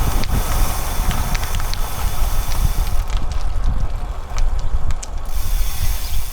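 Bicycle freehub ticking with scattered clicks while the bike coasts, over steady wind buffeting the microphone.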